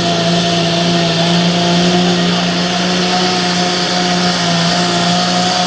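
Ford 7910 pulling tractor's diesel engine running flat out at a steady high pitch under load as it drags the weight-transfer sled.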